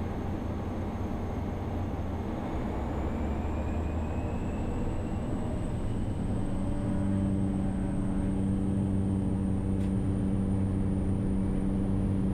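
Cessna Caravan's PT6A turboprop engine spooling up as power is brought in for the takeoff roll: a slowly rising turbine whine. About six seconds in, a steady propeller drone strengthens and the overall level keeps climbing.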